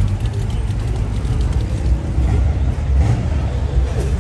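A 1956 Chevrolet Bel Air's engine running with a low, uneven rumble as the car drives past.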